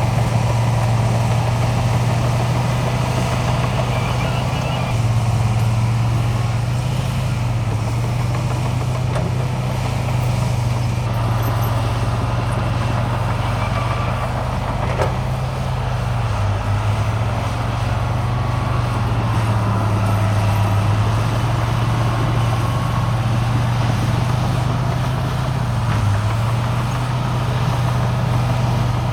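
Diesel engine of heavy earthmoving machinery running steadily with a deep, even hum; its pitch dips briefly a couple of times.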